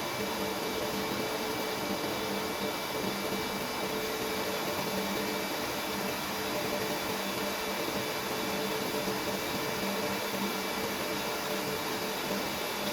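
Steady mechanical hum and whir with a faint constant whine, unchanging throughout.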